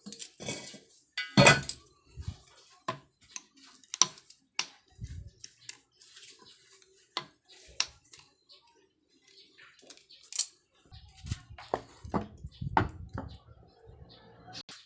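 Metal engine parts and hand tools clinking and knocking in irregular sharp taps during motorcycle engine reassembly, with a low rumbling handling noise near the end.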